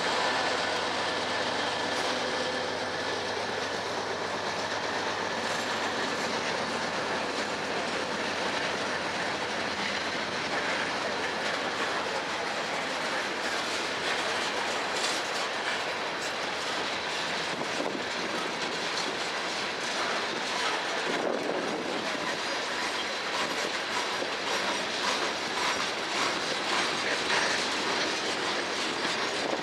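Freight train passing at close range. The trailing diesel locomotive goes by in the first few seconds with a low engine hum, then a long string of hopper, tank and box cars rolls past, steel wheels clacking over the rail joints.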